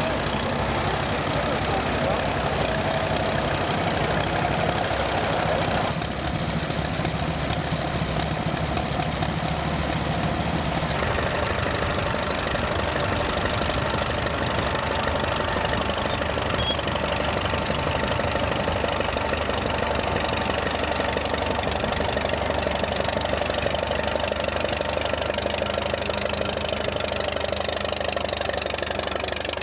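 Vintage tractor engine running steadily, the sound changing abruptly about six and again about eleven seconds in.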